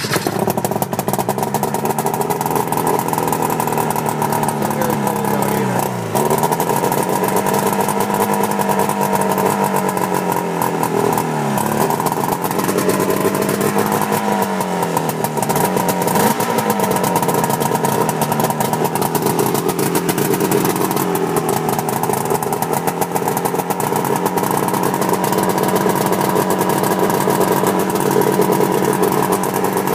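1988 Ski-Doo Safari 377 snowmobile's two-stroke twin engine firing up from a cold start and running. Its revs sag and pick back up three times in the first sixteen seconds, then it settles to a steady run.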